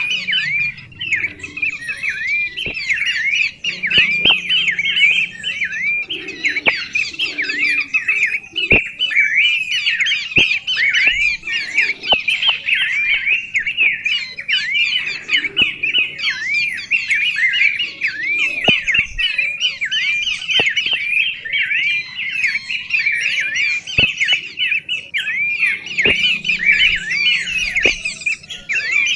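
A bird singing a fast, unbroken stream of chirping notes, each a quick dip and rise in pitch.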